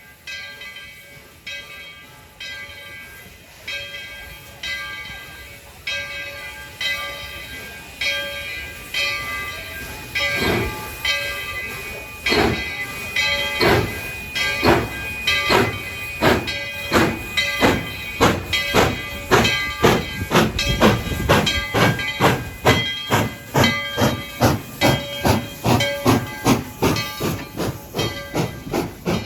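Narrow-gauge steam locomotive No. 12 chuffing as it pulls away, with steam hiss. The exhaust beats start about one a second and quicken to nearly two a second, getting much louder about a third of the way in as the engine picks up speed.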